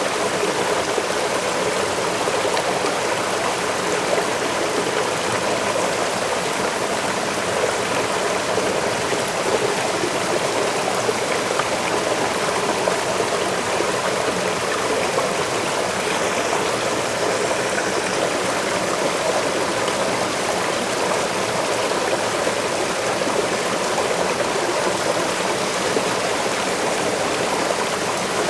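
Waterfall running steadily: an even, unbroken rush of falling and splashing water.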